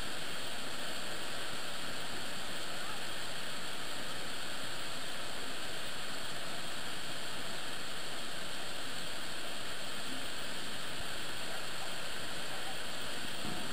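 Niagara Falls: a steady, unbroken rush of falling water.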